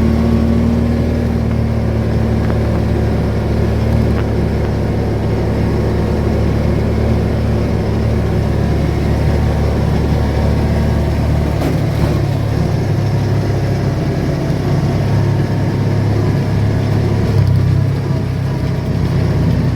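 Car driving steadily, a continuous low engine and road rumble. The rumble's pitch shifts up about halfway through.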